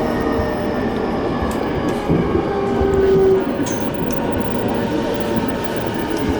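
Electric commuter train running, heard from inside the carriage: a steady rumble of wheels on the rails with the thin whine of the traction motors, falling slightly in pitch. A louder held squeal rises about two and a half seconds in and lasts about a second.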